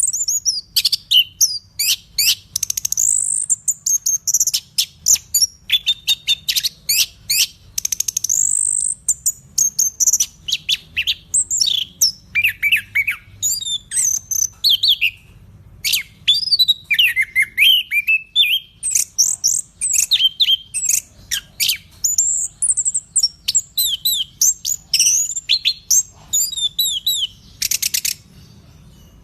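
Chestnut-capped thrush singing nonstop: a fast, varied stream of high whistled phrases, slurred notes and chatters with barely a pause, and a short buzzy burst near the end.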